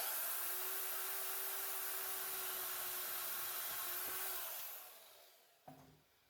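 A power tool switched on abruptly, running steadily with a high hiss and a steady hum for about four seconds, then winding down.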